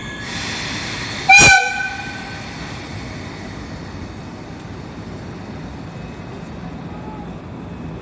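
An EF65 electric locomotive's air whistle gives one short, loud blast about a second in, after a fainter steady tone. Steady train noise follows.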